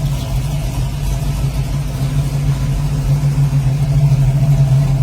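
Car engine running steadily, a deep even drone that grows a little louder.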